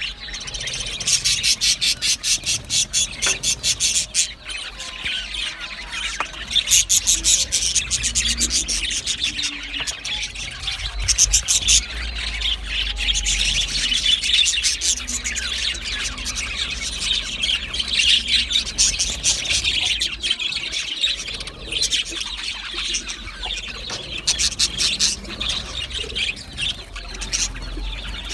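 Budgerigars chirping and singing in a continuous, rapid chatter of high chirps.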